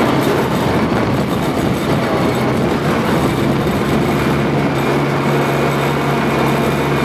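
Tracked armoured vehicle on the move: its engine running with a steady low drone under the continuous clatter and grind of its steel tracks.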